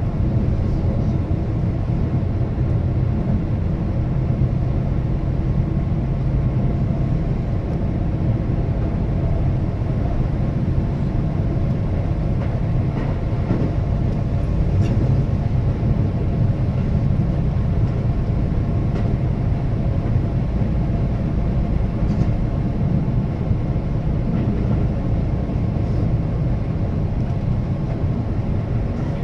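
Keihan limited express train running at speed, heard from inside the leading car: a steady, loud rumble of wheels and running gear on the rails, with a few faint clicks now and then.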